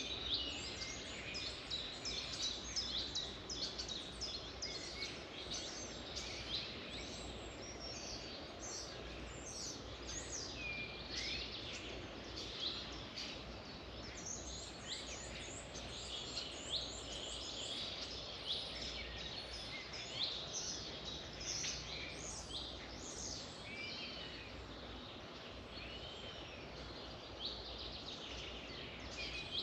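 Several birds singing and chirping at once, a dense overlapping chorus of short whistled notes and trills, over a steady low background hum.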